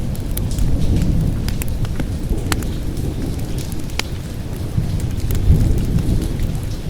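Rolling thunder rumbling low, swelling about a second in and again near the end, over steady rain. Scattered sharp pops run through it, the crackle of a wood fire.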